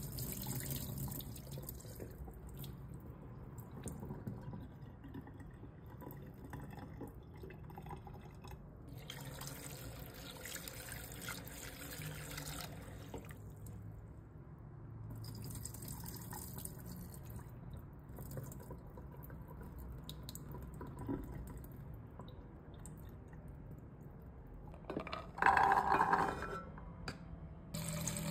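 Water dripping and trickling, with a brief louder sound near the end.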